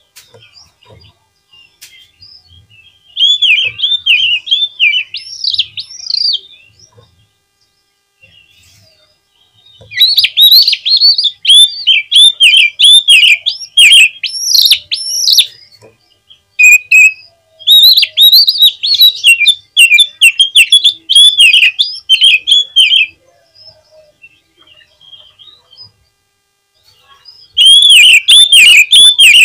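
Oriental magpie-robin (kacer) singing in four bursts of rapid, varied whistled notes, each lasting several seconds, with quiet pauses between them.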